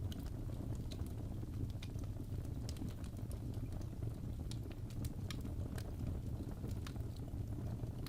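Fire burning in a fireplace: a steady low rumble of flames with scattered sharp crackles and pops at irregular moments.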